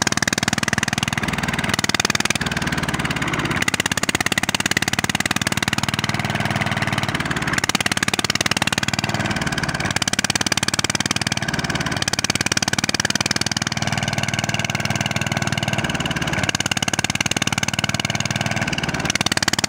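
Diesel engine running steadily, a rapid, even train of firing pulses with no change in speed.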